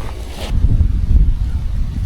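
Wind buffeting the action camera's microphone: a loud, uneven low rumble that sets in about half a second in.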